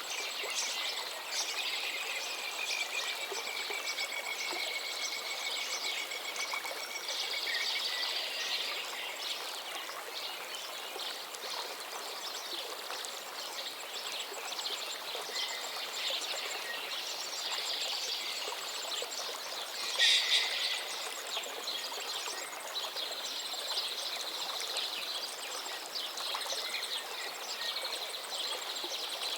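Songbirds chirping and trilling over a steady rush of flowing water, with a louder call about two-thirds of the way through.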